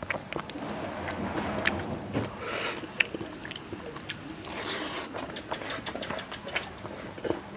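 Close-miked eating of rice with dal and vegetables: wet chewing clicks and mouth smacks, with a couple of short scraping, squishing sounds.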